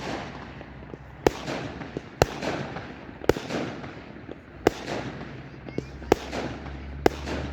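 Fireworks going off: six sharp bangs spaced roughly a second or so apart, each followed by a trailing crackle and echo.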